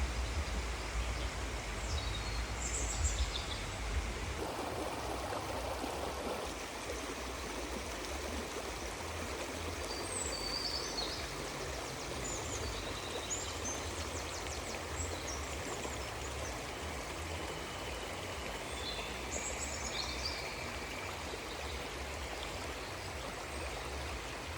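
Outdoor nature ambience: a steady rush of running water, with short, high bird chirps now and then. A low rumble sits under it in the first few seconds.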